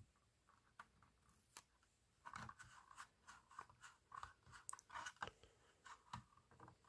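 Faint small clicks and crinkly scratching from handling a sticker sheet and small plastic toy parts, with a sticker being peeled and pressed on. The sound picks up about two seconds in.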